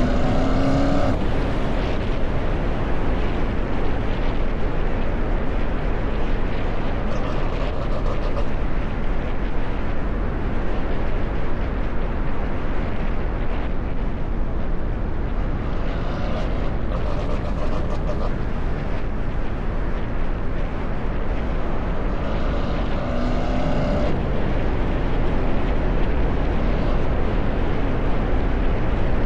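Car on the move, its sound mixed with heavy, steady wind rumble on the microphone.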